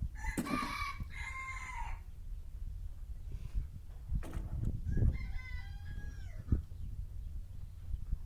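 A rooster crowing twice, the crows about four seconds apart, the second one falling away at its end, over a low steady rumble.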